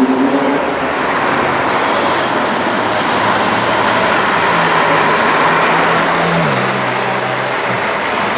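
Ferrari 458's V8 engine running as the car drives past at low speed, its note stepping down in pitch about two thirds of the way through, over general street traffic noise.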